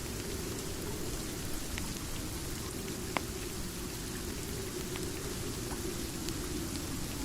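Steady rain with a low, even rush, and a few sharp crackles from a fireplace scattered through it, the loudest about three seconds in.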